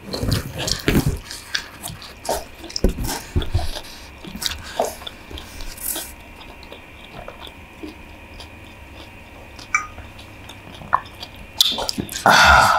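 Close-up eating sounds: wet mouth clicks and smacks of people chewing stir-fried instant noodles with chicken, dense for the first six seconds and sparser after, with a short louder noisy burst near the end.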